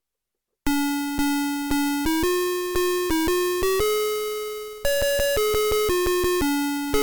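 2002 Playskool Magic Screen Learning Desk playing a simple electronic tune from its sound chip: a run of synthesized notes, about two a second, each struck and fading. The tune begins after a moment of silence.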